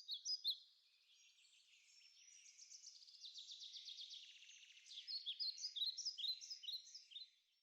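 Birds singing: quick high chirps, a fast trill through the middle, then a run of short slurred downward notes, ending abruptly.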